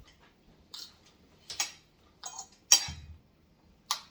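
Cutlery clinking and tapping against dishes at the table during a meal: about five short, sharp clicks, the loudest about three-quarters of the way in.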